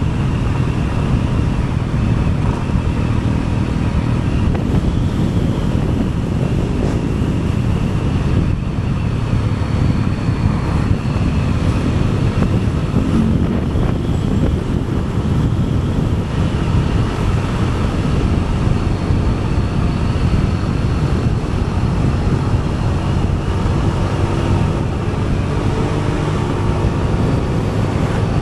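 Wind rushing over the microphone on a moving vehicle, over the steady noise of its engine and tyres on the road, with faint engine tones that slide in pitch near the end.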